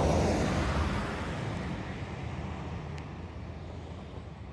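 A road vehicle driving past and pulling away. The engine rumble and road noise are loudest at the start and fade steadily.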